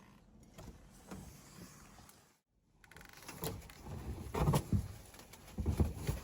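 Handling knocks and thuds of equipment being worked on, sparse at first and then a quick run of louder thumps in the second half.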